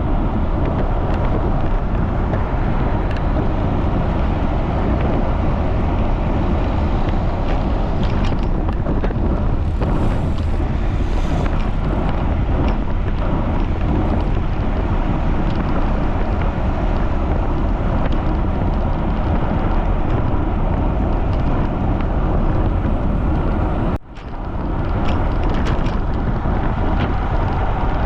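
Strong wind buffeting the microphone while cycling at speed: a steady, heavy rumble and hiss, with a brief sudden dip near the end.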